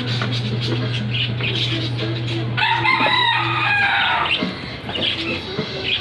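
A rooster crows once, for about a second, a little before the middle, over a steady low hum.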